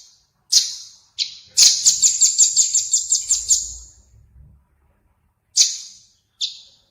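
A small songbird's harsh, sharp calls: two single notes, then a fast rattling series of about six notes a second lasting some two seconds, then two more single notes after a pause.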